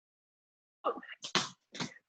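Basketball being dribbled hard on the floor in a quick, even rhythm of about two bounces a second, starting just under a second in.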